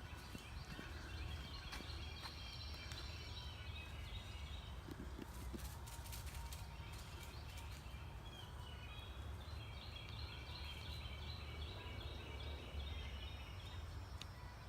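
Rapid, high-pitched pulsing animal calls in two bouts: one at the start lasting about four seconds, another starting about ten seconds in and lasting about four seconds. A steady low rumble runs underneath.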